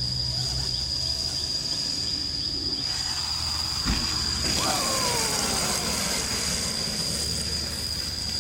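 Electric dirt bike's QS138 3000 W motor whining as the bike runs, with a steady high-pitched whine throughout and a rumble of tyres and chassis. About four and a half seconds in, the motor's whine drops steadily in pitch as the bike slows.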